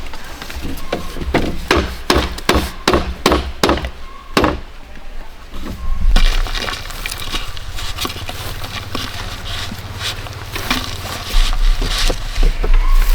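A run of sharp strikes on bamboo, about two to three a second for the first four seconds, then irregular cracking and rustling over a low rumble.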